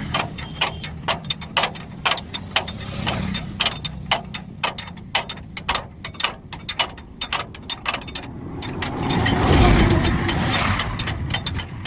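Quick, irregular metallic clicks and taps of tools working on a truck's leaf spring, several a second. About nine seconds in, a vehicle's rumble swells up, becomes the loudest sound, then eases off.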